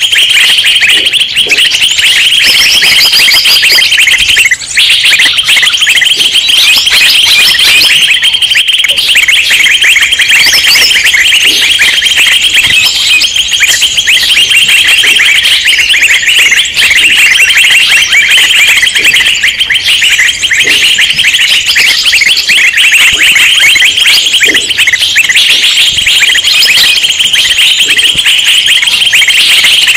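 A loud, dense chorus of many small birds chirping and calling at once without a break, rapid high chirps piling over each other: a 'burung ribut' lure recording of agitated small-bird calls used to draw wild birds in.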